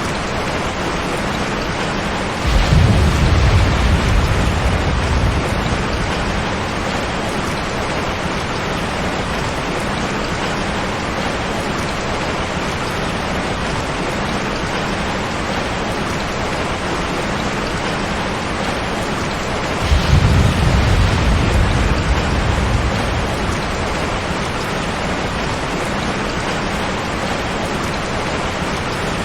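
Steady heavy rain, with two rolls of thunder: one about two and a half seconds in and another about twenty seconds in, each a low rumble that fades over a few seconds.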